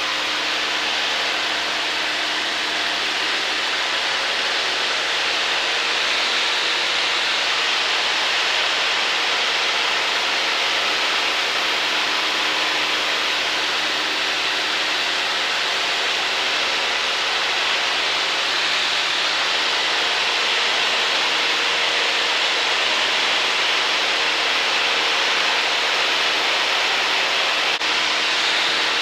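Cessna 152's four-cylinder Lycoming engine and propeller running steadily in flight, heard from inside the cockpit as a constant drone under a dense rush of wind and airframe noise.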